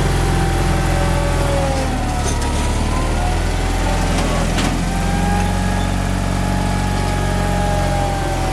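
Gehl skid steer's engine running steadily, with a higher whine that drifts slightly in pitch over it and a couple of sharp clicks about four seconds in.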